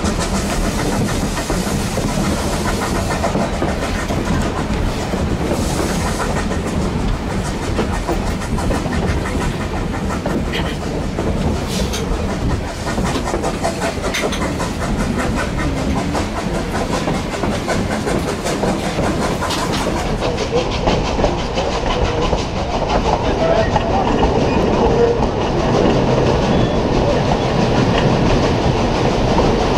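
Durango & Silverton narrow-gauge steam train running, a steady rolling rumble of the cars on the rails with a few sharp clicks near the middle. The sound shifts about twenty seconds in, losing its hiss and growing a little louder.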